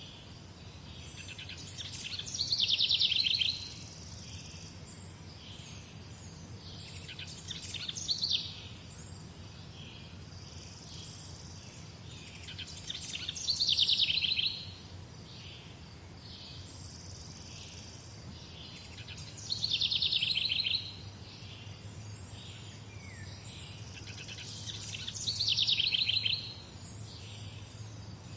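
A songbird singing the same short, quick trilling phrase about every six seconds, five times, with softer bird calls between. A faint steady low hum runs underneath.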